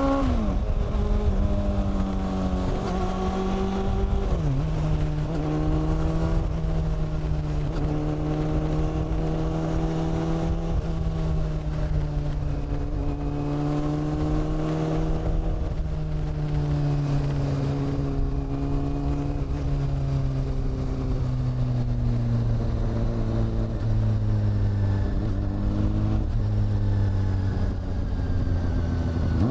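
Honda CB400 Super Four's inline-four engine and exhaust on the move, its note changing with speed and gear. The note falls right after the start and drops sharply about four seconds in. It then holds steady for a long stretch, sinks slowly in the second half, dips briefly near the end and climbs again.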